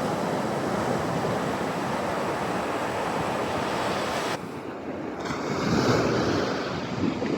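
Small surf breaking and washing up on a beach, a steady rush of noise. It drops abruptly about four and a half seconds in, then swells up again.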